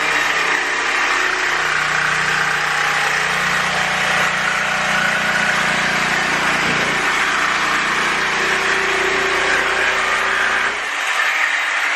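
Electric jigsaw running steadily as it cuts through a cork floor plank, easing off about eleven seconds in.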